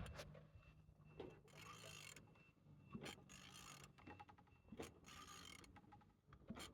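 Opel Z14XE 1.4-litre four-cylinder engine being turned over by hand with a ratchet wrench on the crankshaft. Faint mechanical clicks come every couple of seconds, each followed by a short rushing sound as the engine rotates. It turns freely.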